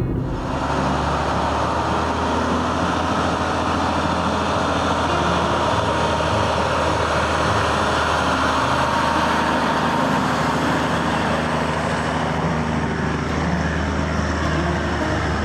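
Heavy vehicle engine running steadily at an even speed, with a strong low hum.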